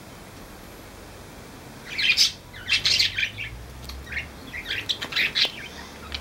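Pet parrots, budgerigars and cockatiels, chirping in a run of short, high, harsh calls that start about two seconds in; before that there is only a faint low hum.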